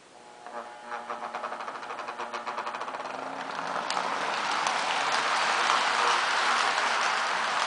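Lionel O-gauge Burlington GP-7 model locomotive with a post-war-type open-frame motor pulling away on three-rail track. A faint rising motor whine and quickening clicks of the wheels over the track joints pick up speed, then settle into a steady running rattle and rumble from about four seconds in.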